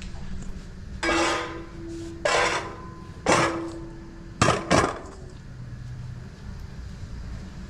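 Dishes and kitchenware knocking and clinking, about five separate strikes. A couple of them leave a short ringing tone, as metal or glass does when struck.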